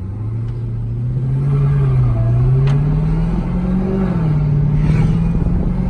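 2018 Jeep Grand Cherokee Trackhawk's supercharged V8 running through a Borla ATAK cat-back exhaust, its note climbing gradually under throttle, then easing slightly about four seconds in and holding steady.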